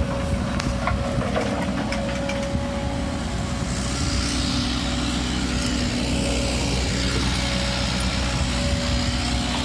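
Excavator's diesel engine running steadily while it digs, a low drone with steady tones. A hiss swells and fades in the middle.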